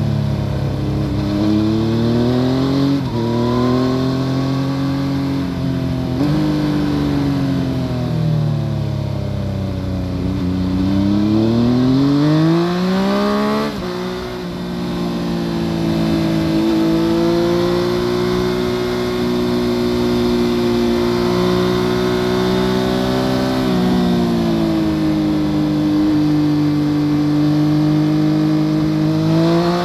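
2014 Yamaha FZ-09's 847 cc inline-three running through an Akrapovic full exhaust, heard from under the seat while riding. The revs rise and fall, then climb steeply to a peak and drop sharply at a gear change just before halfway. After that the engine holds a steady cruise, dipping once and rising again near the end.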